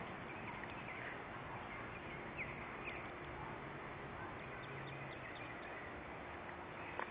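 A steady, even outdoor background rush with a few short, high bird chirps.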